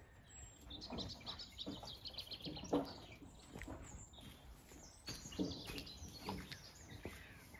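Small birds chirping in quick high runs, with a few short knocks in between.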